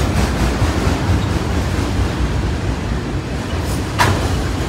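Freight train of autorack cars rolling past, a steady rumble of steel wheels on rail, with one sharp clank about four seconds in.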